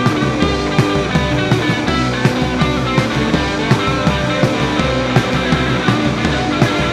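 Live rock band playing an instrumental passage: electric guitar and drums with a steady beat.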